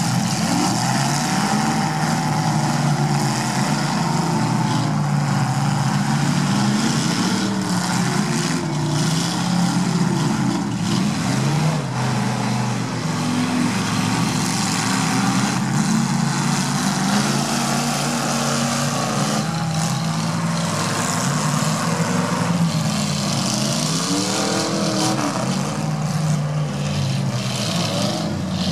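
Several demolition derby cars' engines running and revving up and down as the cars push through deep mud, with a few knocks from car bodies meeting.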